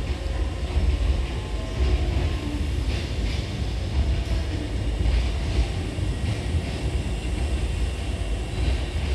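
Hankyu 7000 series electric commuter train pulling out of the platform, a steady low rumble of wheels on rails and running gear with faint shifting motor tones.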